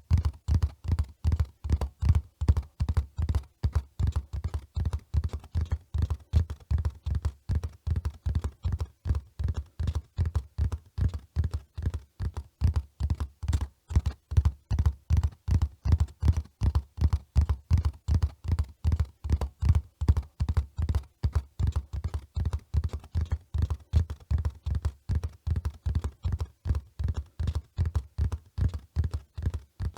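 Horse hooves beating in a quick, even rhythm, about four to five dull, deep thuds a second, the sound of a horse running.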